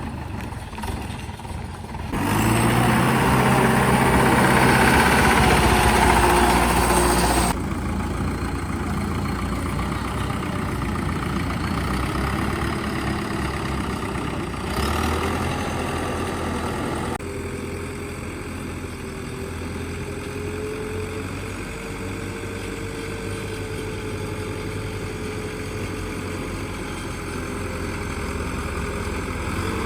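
Old truck's engine running: it gets much louder for about five seconds shortly after the start, then runs on steadily at a lower level.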